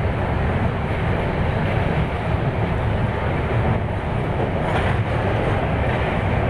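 Saraighat Express passenger train running across a steel truss rail bridge: a steady, loud rumble of wheels on rails and rattling coaches, heard from an open coach window.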